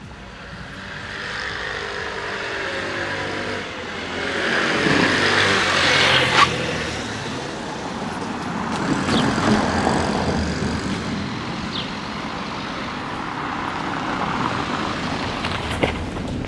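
Road traffic: vehicles passing close by on the street, the loudest going past about six seconds in and another around ten seconds. Engine tones fall in pitch as a vehicle goes by.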